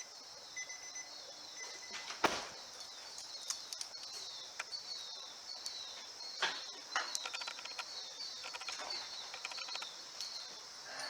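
Small birds chirping over and over with short falling notes, with one thud about two seconds in and scattered sharp clicks later on.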